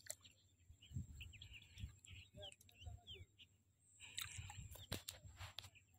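Faint bird chirps and calls, short quick notes that come in clusters, over low bumps and rustle.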